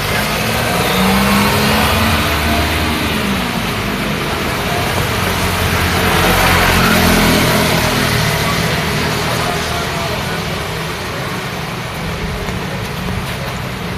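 Road traffic in the rain: a steady hiss of rain with car engines running underneath. One vehicle passes close, loudest about halfway through.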